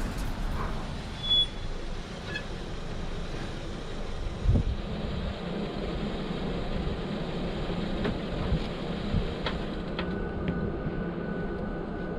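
A 2010 Mazda 6 Sport running with steady engine hum and road noise as it is driven up, with a short knock about four and a half seconds in.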